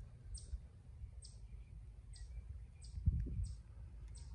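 A bird repeating short, sharp, descending chip notes about once a second, over a low outdoor rumble, with a soft thump about three seconds in.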